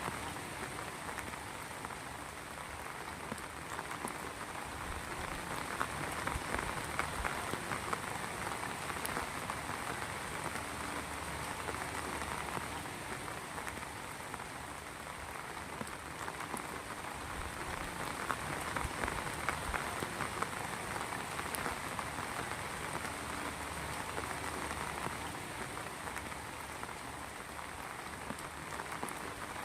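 Heavy rain falling steadily, with dense pattering of drops that swells and eases a little every several seconds.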